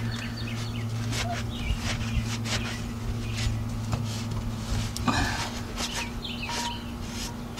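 A steady low electrical hum throughout, with scattered clicks and knocks of handling and a few short faint chirps, likely birds.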